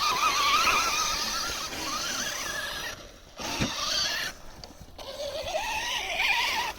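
Electric motor and gear drive of a Traxxas TRX-4 Sport RC truck whining, the pitch wavering up and down as the throttle and load change. The whine cuts out twice briefly, and there is a short knock near the middle.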